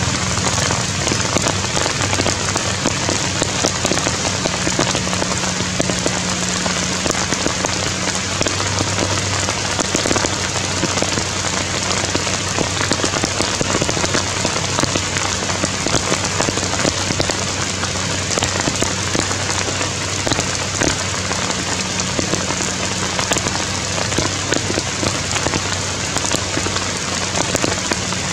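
Steady rain falling, with many close drop hits in an even hiss.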